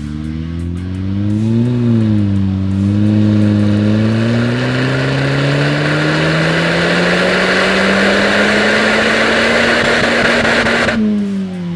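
2013 Volkswagen Golf R's turbocharged four-cylinder engine, running through a Remus cat-back sport exhaust, accelerating. After a short blip of revs, the pitch climbs steadily for about eight seconds as it gets louder, then falls away sharply near the end.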